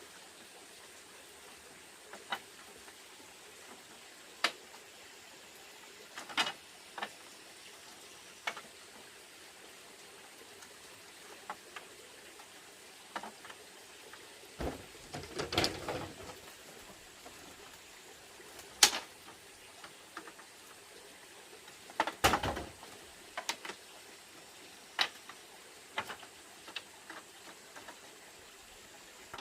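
Scattered light knocks and clicks over a faint steady hiss, with two longer clattering clusters about fifteen and twenty-two seconds in.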